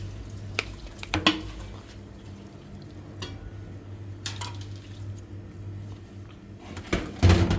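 Scattered knocks and clinks of dishes or pots being handled, the loudest near the end, over a steady low hum.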